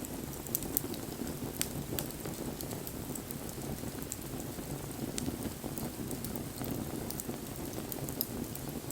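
Wood fire burning with a steady low noise of flames and scattered sharp crackles and pops from the wood.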